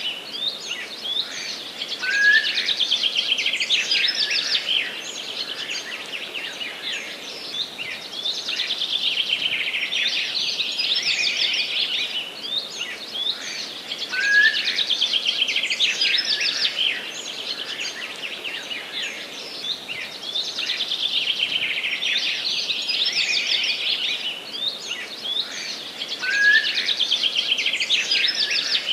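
Several forest songbirds singing together in a dense chorus of rapid chirps and trills over a steady background hiss. The same stretch of song comes round again about every twelve seconds.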